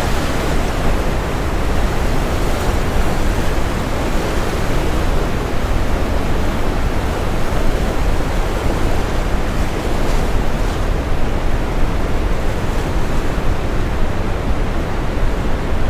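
Steady brown noise, a dense even hiss heaviest in the low end, mixed with ocean waves breaking and washing in.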